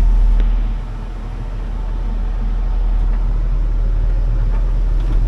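Large hydraulic excavator's diesel engine running at idle, a steady low rumble heard from inside the cab; the level dips about a second in and slowly builds back up.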